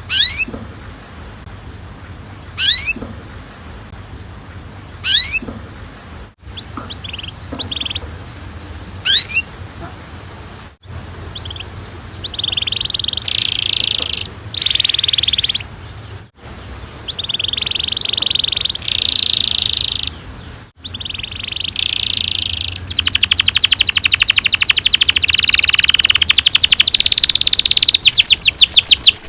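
Domestic canary singing. It starts with single down-slurred whistled notes a couple of seconds apart. About halfway through come louder trilled phrases, and in the last few seconds one long, rapid, unbroken roll.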